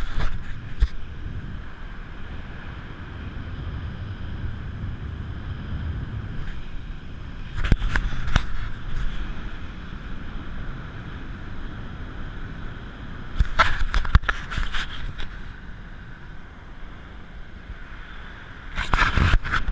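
Motorboat under way: a steady engine hum with rushing water and wind, broken three times by louder gusts of noise about a second or two long.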